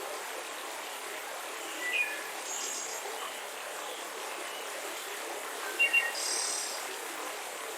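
Mountain river rushing steadily, with scattered bird chirps over it: a short call about two seconds in, and a louder flurry of high chirps about six seconds in.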